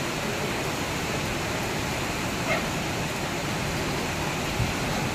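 Heavy rain pouring down onto a street, a steady even hiss, with a brief faint call about halfway through.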